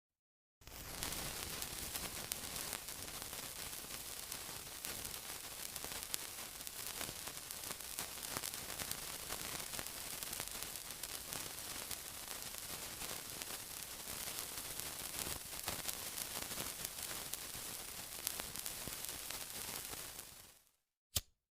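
Steady sizzling hiss with many fine crackles. It starts after a brief silence and fades out near the end, followed by a single sharp click.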